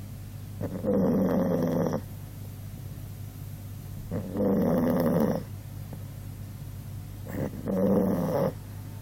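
A sixteen-year-old dog snoring in its sleep, as heavily as a person: three snores, each lasting about a second and coming roughly every three and a half seconds.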